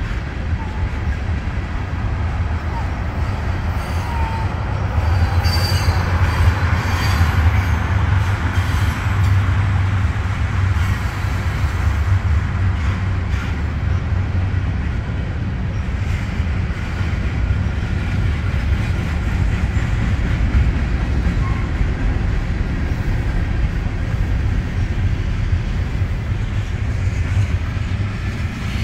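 Freight cars of a CSX mixed freight train rolling past: a steady rumble of steel wheels on rail, with brief wheel squeals.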